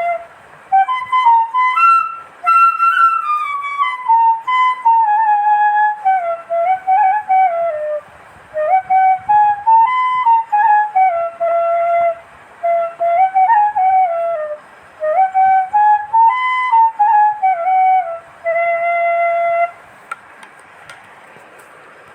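Background music: a solo flute playing a slow, wandering melody in short phrases, stopping shortly before the end.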